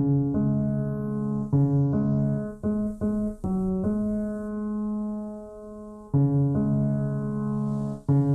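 Sampled 1928 Steinway scoring piano with its timbre reshaped by a sampler's Color mode, playing slow chords. There is a quick run of chord changes in the first four seconds, then a chord held about two seconds, then fresh chords near the end.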